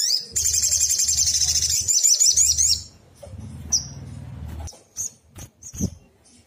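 Sunbird song: a loud, fast, high-pitched trill for about three seconds, then a few short single chirps. A low hum sits underneath the first half.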